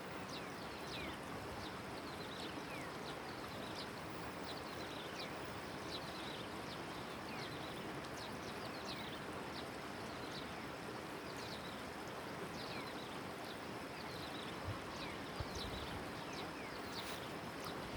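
Steady rushing of river water, with short high chirps that fall in pitch repeating throughout from birds. There are a couple of low knocks near the end.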